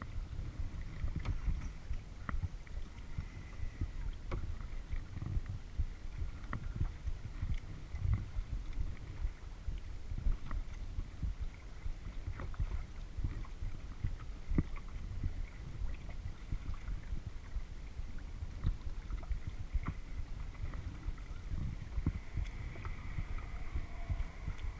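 Kayak being paddled on a lake: water sloshing and dripping around the paddle and hull, with scattered small knocks. A steady low rumble of wind on the microphone runs under it.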